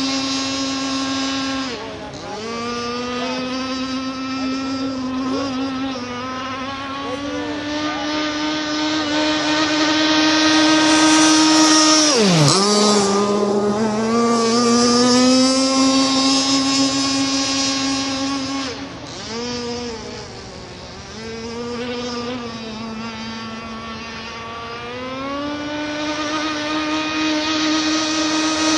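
An RC racing catamaran's motor running at high speed on passes over the water. Its pitch holds high and steady for long stretches, swoops sharply down and back up about twelve seconds in, and dips again around twenty seconds before climbing once more.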